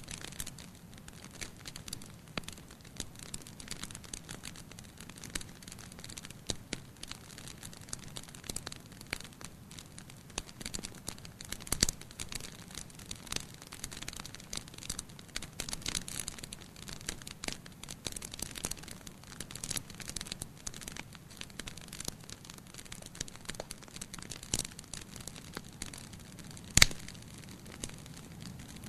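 Wood fire burning in a fireplace: constant fine crackling with occasional sharper pops, a strong one about twelve seconds in and the loudest near the end.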